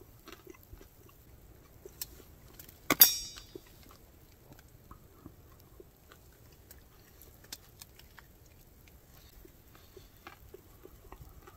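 A person chewing a bacon-and-egg breakfast sandwich on an English muffin: small, scattered mouth noises and clicks. One sharp clink about three seconds in rings briefly and is the loudest sound.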